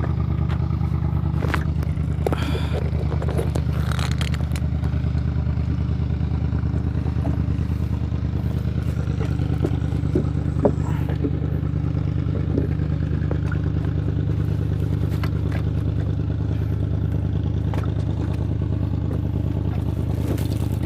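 A small engine running steadily at a constant speed, with scattered clicks and scrapes from handled gear.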